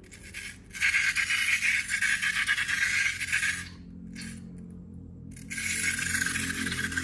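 Two spells of crackly, hissing handling noise from slime and balloons being worked, the first about three seconds long and the second starting near the end, over faint background music.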